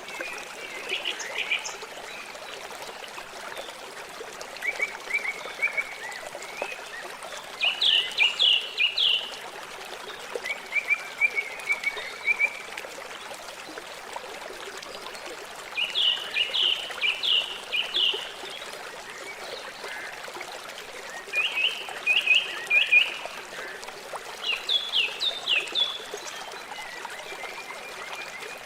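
River water flowing steadily, with a bird calling over it in short bursts of four to six rapid chirps, repeated about every three to five seconds.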